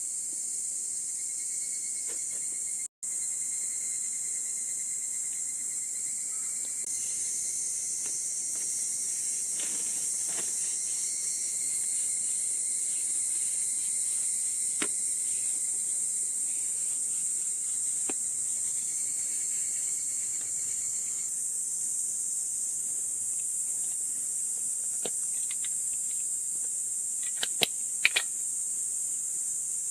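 Steady high-pitched chorus of insects calling, with a few faint clicks scattered through it and a short cluster of sharper clicks near the end. The sound cuts out for an instant about three seconds in.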